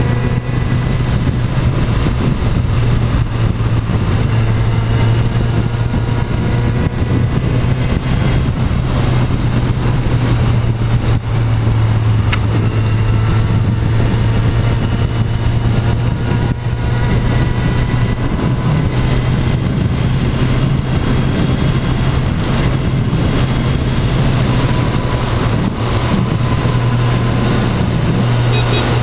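Kawasaki Z motorcycle engine running steadily at cruising speed, its pitch drifting gently up and down, with road noise.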